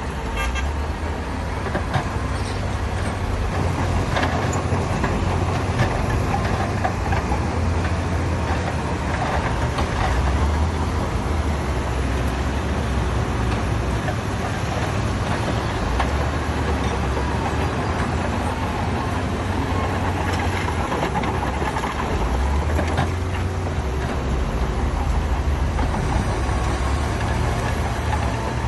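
Heavy diesel earth-moving machinery running steadily under load, a deep continuous engine rumble with occasional faint knocks.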